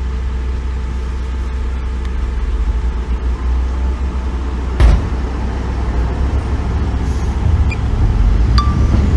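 Heavy diesel earthmoving machinery running steadily with a deep engine drone, and a single loud clank about halfway through.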